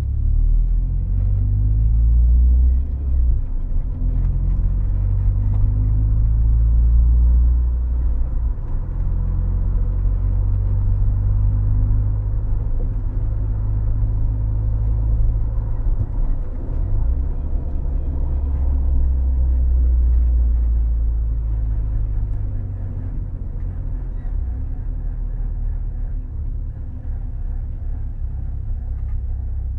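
Toyota AE92 running, a loud low engine and road rumble with the engine note shifting up and down in pitch.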